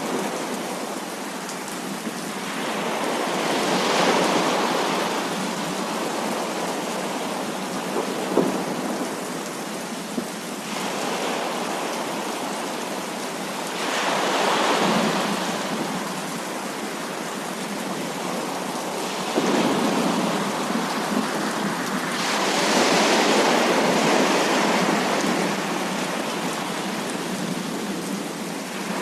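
Heavy rain falling steadily, with three long swells of rolling thunder, the longest near the end, and a couple of brief sharp knocks a third of the way in.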